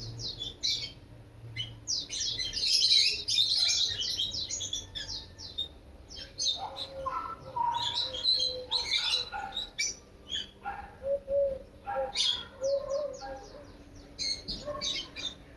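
Small birds chirping: many quick, high chirps, thickest and loudest a couple of seconds in and again about halfway, with a fast run of chirps near the end.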